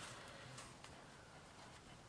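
Near silence: quiet room tone with a faint rustle early on and a few small, faint clicks.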